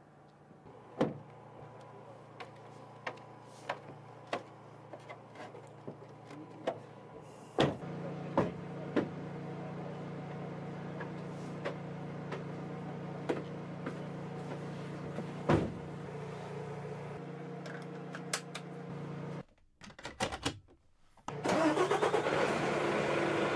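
A vehicle engine running steadily, with scattered sharp clicks. It gets louder about a third of the way in and breaks off near the end, followed by a louder rushing noise.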